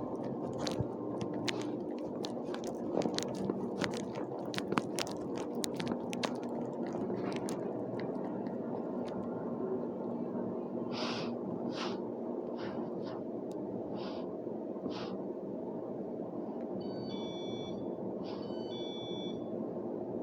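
A steady background hum with a run of sharp clicks at first, then a handful of short hissing bursts, and two quick clusters of electronic beeps near the end.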